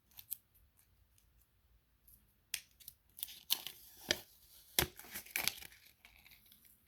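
A mailed package of trading cards being opened by hand: tape and packaging tearing and crinkling. A few faint clicks come first, then a couple of seconds in an irregular run of sharp rips and crackles.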